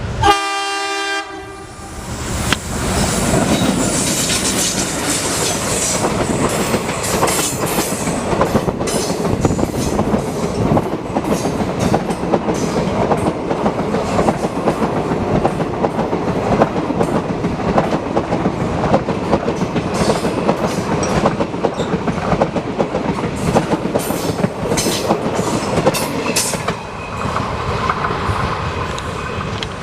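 A train horn sounds once, briefly, at the start. Then an Indian Railways express train passes close by, its wheels clattering over the rail joints for the rest of the time.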